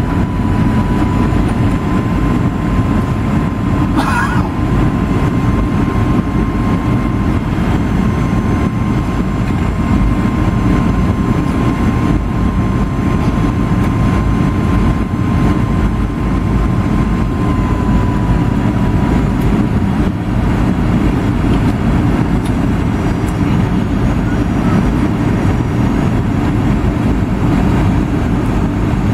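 Cabin noise aboard a Boeing 757-200 airliner on its landing approach: a steady, loud, low roar of engines and airflow heard from inside the cabin, with a thin steady high tone that fades a little over halfway through. There is a brief click about four seconds in.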